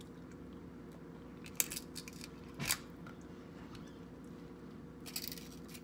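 King crab leg shells cracking and snapping as they are broken open by hand: a sharp snap, a louder crack a second later, and a short run of crackling near the end, over a low steady hum.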